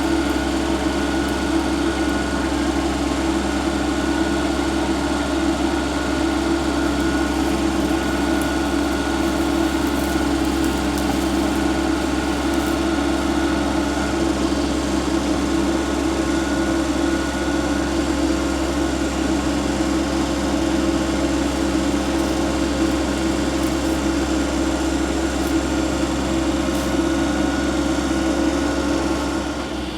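Kubota compact tractor's engine running at a steady speed, a constant hum with a thin, steady whine above it. It eases off slightly just before the end.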